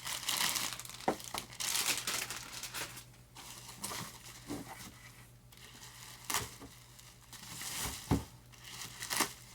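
Plastic packaging wrap crinkling and rustling as a part is unwrapped, with tape being pulled off and a few sharp crackles.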